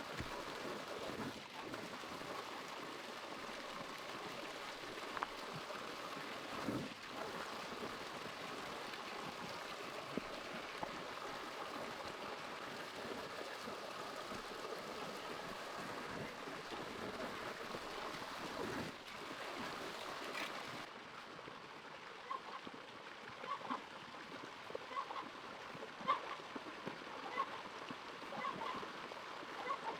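Steady rush of running water, like a stream. About two-thirds of the way through, the sound turns quieter and duller, with a scatter of short, light taps.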